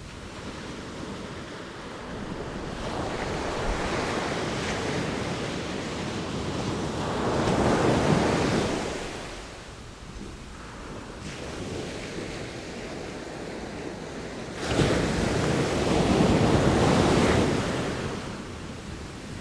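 Sea waves breaking on the shore. One wave builds and crashes about eight seconds in. A second breaks suddenly just before fifteen seconds and washes on for a few seconds, with a softer hiss of surf between the two.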